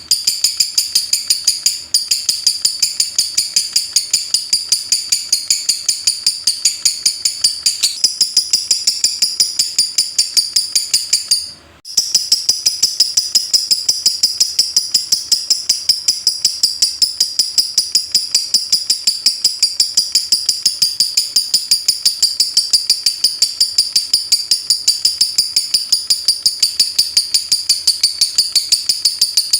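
Lovebird 'ngetik' call: a rapid, unbroken run of sharp high chirps at about five a second, like typing, broken off for a moment near the middle.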